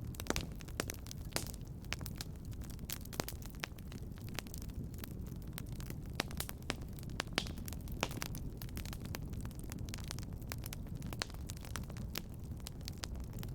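Fire crackling in a fireplace: frequent irregular pops and snaps over a steady low rumble of the flames.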